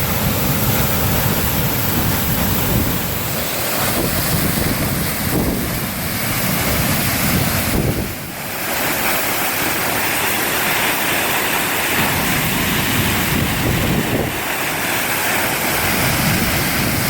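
Koshiramizu Falls: a steady, loud rush of falling water, with wind buffeting the microphone in low gusts. The sound dips briefly about eight seconds in.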